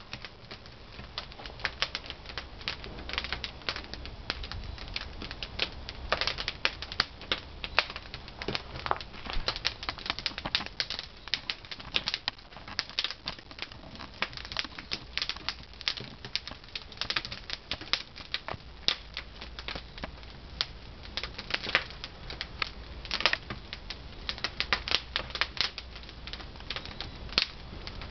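Pine firewood crackling as it burns in a traditional wood-fired kiln: a dense, irregular run of sharp snaps.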